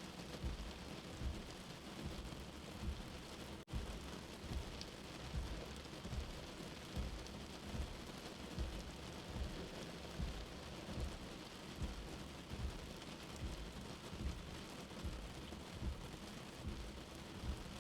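Steady rain hiss with a soft, slow heartbeat thumping low underneath, about three beats every two seconds. The sound cuts out for an instant about four seconds in.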